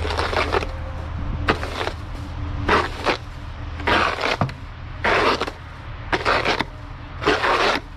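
Snow crunching in short, even strokes about once a second, over the steady low hum of an idling truck.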